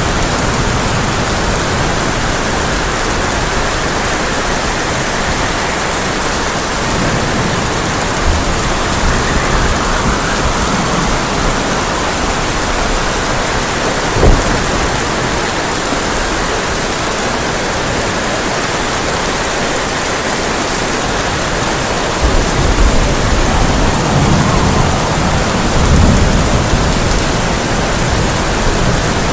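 Heavy rain falling steadily on a sheet-metal (tin) roof, with a single sharp crack about halfway through and low thunder rumbling near the end.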